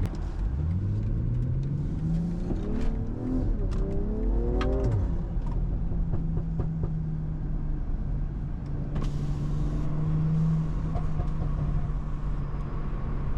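BMW M340i's turbocharged B58 inline-six accelerating, heard from inside the cabin: the engine pitch climbs for about four seconds with a brief dip partway, then falls and settles into a steady drone as the car cruises.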